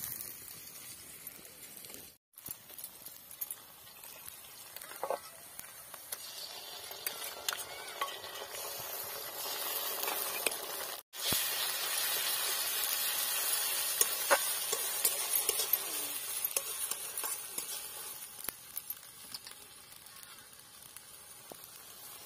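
Sliced onions and spice paste frying in oil in a steel kadai, sizzling, while a steel spoon stirs and scrapes against the pan with light clicks. The sizzling is loudest after a brief dropout about eleven seconds in.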